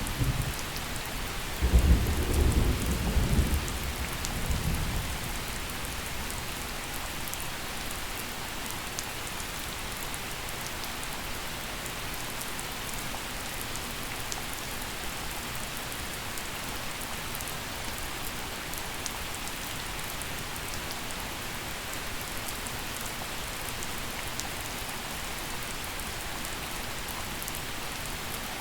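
Steady gentle rain falling, with a rumble of thunder about two seconds in that fades away over the next few seconds, leaving only the rain.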